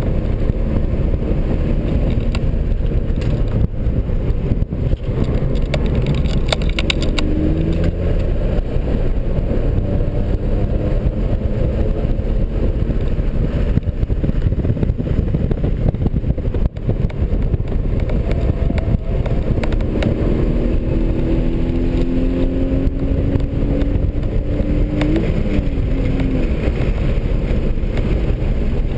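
A 2003 BMW 330i's 3.0-litre inline-six heard from inside the cabin at track speed, under a steady rush of wind and road noise. The engine note climbs steadily for several seconds in the last third and then drops abruptly near the end, as at an upshift.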